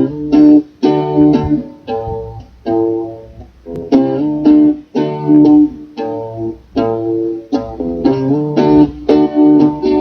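Guitar playing chords in a rhythmic pattern, each strummed chord sharply struck and ringing briefly before the next, with a bass line underneath.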